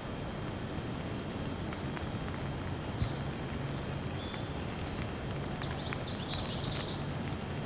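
Steady rain with scattered drop taps, and a bird chirping in short high notes that thicken into a quick run of chirps about six seconds in.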